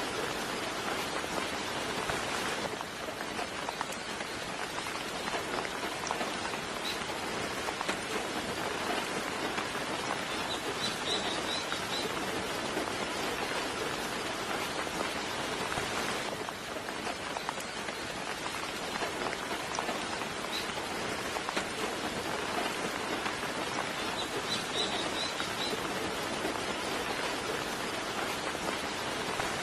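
Steady soft rain pattering on surfaces. Twice, about a third of the way in and again near the end, a bird gives a brief run of high chirps over it.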